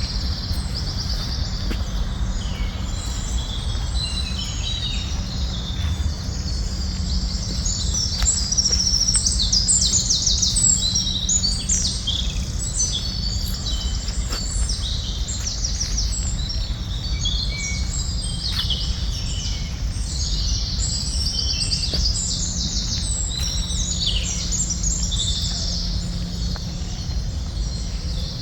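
Dense chorus of many wild birds chirping and trilling in overlapping short calls, over a steady low background rumble.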